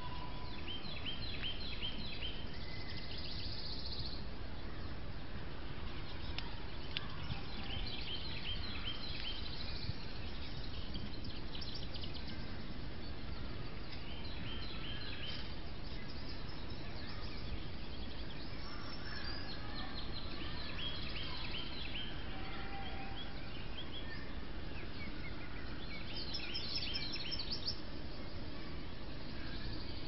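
A songbird singing: short phrases of rapid repeated high notes, every five or six seconds, over steady low background noise.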